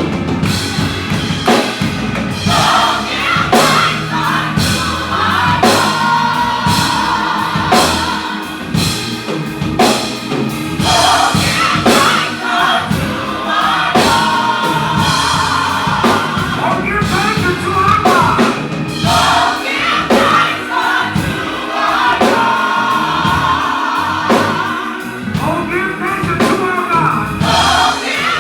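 Gospel choir singing with a live band, drums keeping a steady beat under the voices.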